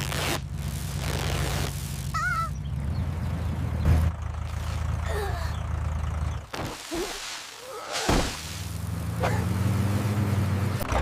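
Tractor engine running steadily, with a short squeak about two seconds in. The engine sound drops away for about a second and a half after six seconds, then comes back.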